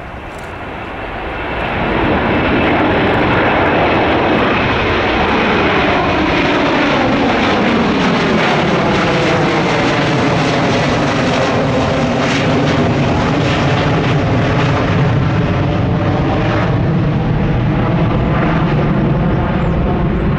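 Delta Airbus A330-300 twin-engine jet airliner at takeoff power: the jet engines' noise builds over the first two seconds, then stays loud and steady as the aircraft passes, with a sweeping tone that falls and then rises again.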